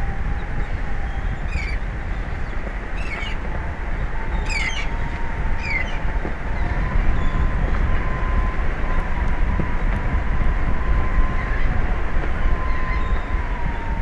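Steady wind noise buffeting the microphone, with a thin steady whine running through it and four short bird calls in the first six seconds.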